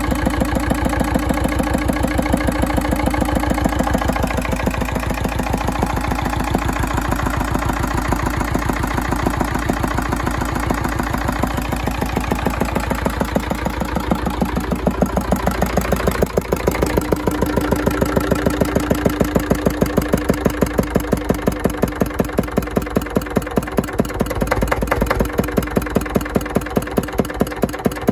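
Andoria S15 single-cylinder diesel engine running steadily, each firing stroke heard as a distinct, even beat. About halfway through the sound briefly dips, then the same steady running carries on.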